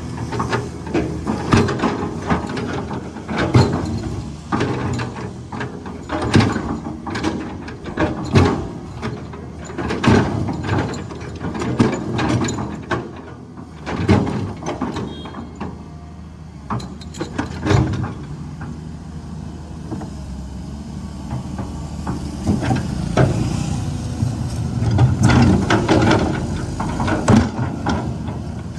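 Caterpillar 320 excavator's diesel engine running steadily while the machine works, with repeated irregular clanks and knocks of metal and rock.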